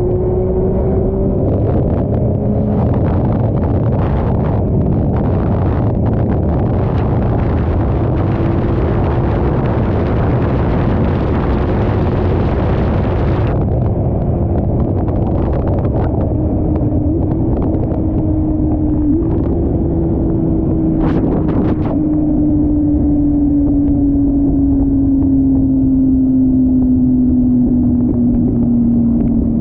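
Motorcycle engine running steadily at speed, its drone sinking slowly in pitch as it eases off, under a loud rush of wind that cuts off abruptly about halfway through.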